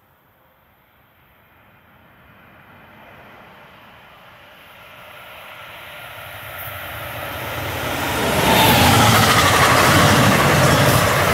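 NJ Transit commuter train of double-deck Multilevel coaches approaching and passing close by. The rumble and rail noise grow steadily from faint to loud over about eight seconds, then hold as a steady loud rush while the coaches go past.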